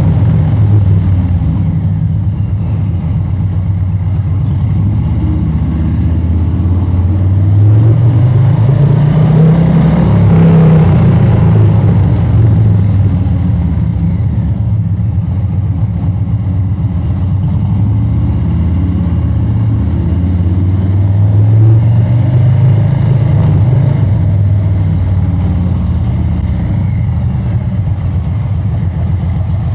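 Harley-Davidson Street Bob 114's Milwaukee-Eight 114 V-twin running loud through an aftermarket exhaust while riding. The engine note climbs under acceleration between roughly a quarter and a third of the way in, drops, climbs again past the middle, then settles to a steadier cruise.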